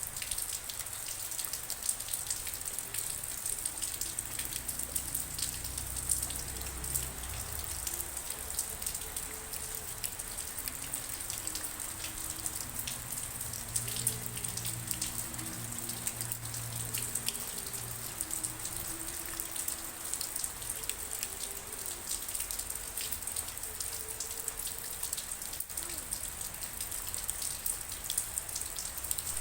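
Steady rain falling, with a dense patter of individual raindrops over a constant hiss.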